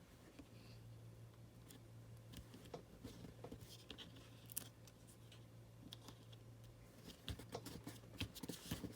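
Faint handling of paper scraps during gluing: scattered light clicks and brief rustles, over a low steady hum that drops out near the end.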